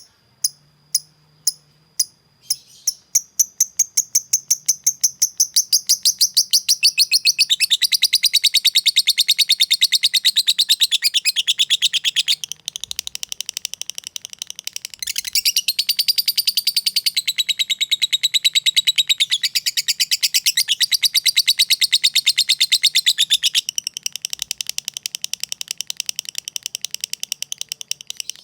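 Lovebird calling: spaced sharp ticking chirps, about two a second, speed up over the first few seconds into a long unbroken, very rapid high-pitched chatter (the 'ngekek'). The chatter dips briefly twice but runs on at full speed.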